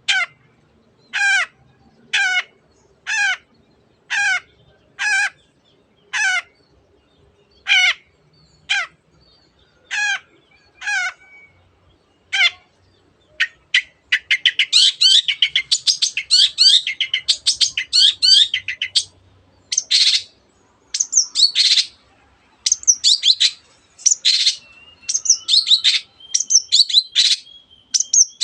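Long-tailed shrike (cendet) calling: about a dozen separate downslurred 'teot' calls roughly once a second. About halfway through it breaks into fast, varied chattering song with rapid trills.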